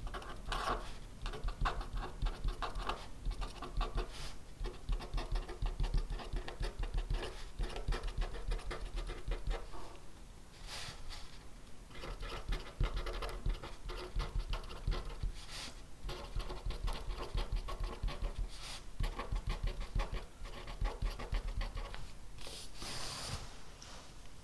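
Handwriting on paper: a run of quick scratching strokes with short pauses, and a few brief louder rustles of paper.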